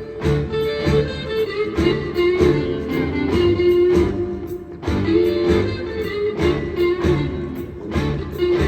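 Live electric blues band playing an instrumental passage: a held, gliding lead guitar line over drums and bass.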